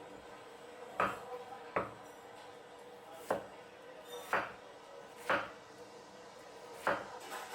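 A knife chopping on a cutting board in slow, irregular strokes, about six in all.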